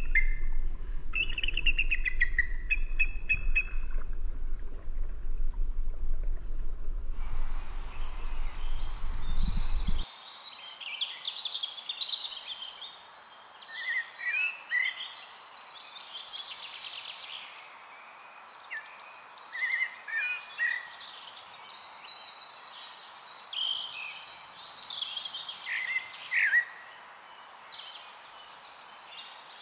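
Several birds chirping and singing in short, quick calls and whistles over a steady outdoor hiss. For the first ten seconds a heavy low rumble sits under the calls, then cuts off abruptly.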